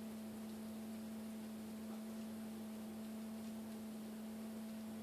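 Steady low electrical hum with room hiss, broken only by a faint tick or two.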